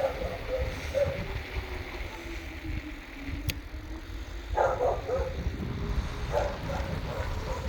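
Wind and road rumble while riding a bicycle, with a single sharp click near the middle. A dog barks twice in the second half.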